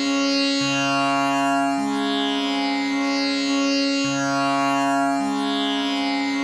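Tanpura drone tuned to C sharp, its strings plucked one after another in a slow cycle that repeats about every three and a half seconds. Each new pluck rings over the last, so the drone never breaks. Each pluck is followed by a sweep of bright, buzzing overtones.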